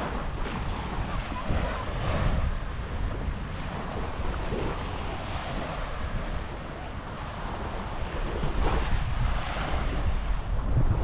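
Small waves washing onto a beach, their hiss swelling and fading, while wind buffets the microphone in a constant low rumble.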